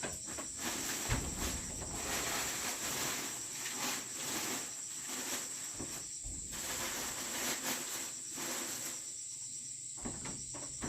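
Steady high-pitched chirring of insects, with a few low knocks about a second in and again near the middle.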